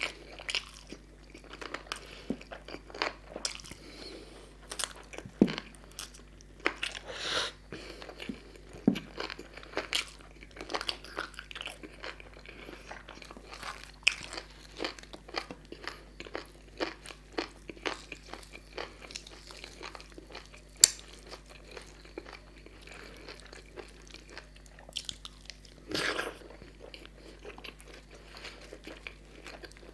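Close-miked chewing and wet mouth sounds of a man eating chicken curry and puri with his fingers: irregular smacks, clicks and crunches, one sharper click about two thirds of the way through.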